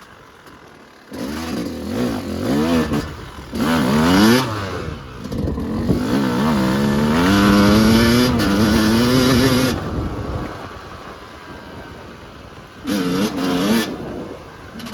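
Yamaha YZ250 two-stroke dirt bike engine under riding throttle. It runs quietly for about a second, then revs up and down repeatedly, holds high revs for a few seconds in the middle, eases off, and revs up again near the end.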